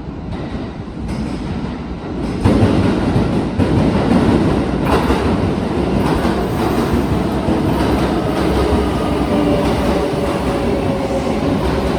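A Kintetsu electric train moving along the platform with rumbling wheels on rail. The sound gets suddenly louder about two and a half seconds in. From about halfway through, a steady whine of several tones sounds over the rumble and sinks slightly in pitch.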